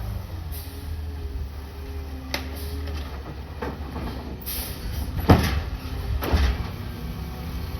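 Garbage truck with an automated side-loader body running steadily, with a brief whine and several sharp metallic clanks and bangs from its loading mechanism, the loudest past the halfway point.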